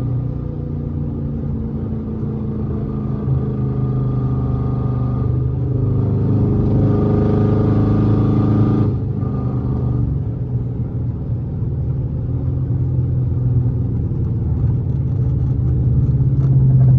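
Dodge SRT8's 392 HEMI V8 running while driving. It pulls harder from about four seconds in and eases off sharply just before nine seconds, then runs on steadily. The engine is logging a cylinder 4 misfire and a random misfire (P0304, P0300), which the owner suspects comes from the lifters.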